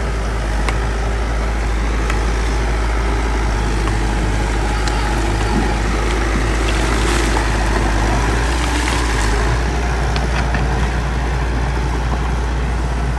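Bulldozer diesel engine running with a steady low drone, with scattered clanks. A louder rush of scraping noise comes about seven to nine seconds in.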